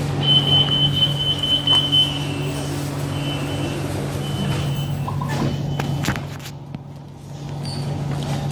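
BTS Skytrain electric train running, a steady low hum with a high whine that holds for about two seconds and then comes back in short pieces. The level drops briefly about six to seven seconds in.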